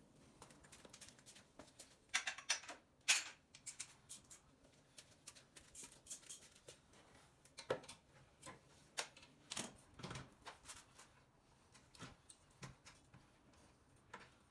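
Irregular light clicks, taps and short scraping rasps of small hand tools and parts being handled, with a brief flurry about two seconds in.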